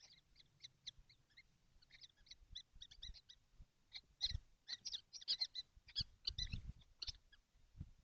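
Common kestrel nestlings in a nest box, calling in many short, high squeaky notes in quick succession, densest through the middle. A few dull knocks sound among the calls.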